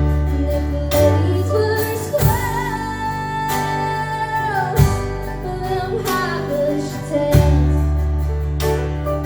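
Live acoustic band music: a girl's singing voice, with a long held note in the middle, over guitar and a bass line.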